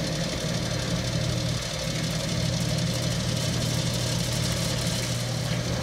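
1939 Bennett 541 gas pump running and pumping diesel fuel, a steady mechanical hum as its sale and gallon counters turn.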